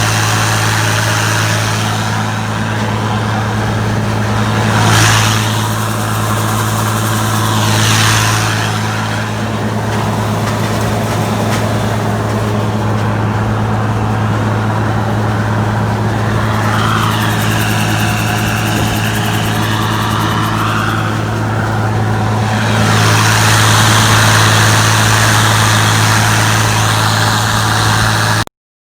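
Heavy farm-vehicle engine running at a steady speed with a constant low hum. The noise swells briefly twice, then again for a few seconds later on, before cutting off suddenly near the end.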